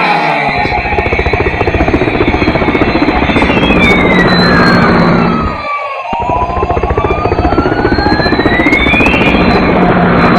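Helicopter sound effect: a fast, steady rotor chopping, with a tone that glides down and then back up through the middle.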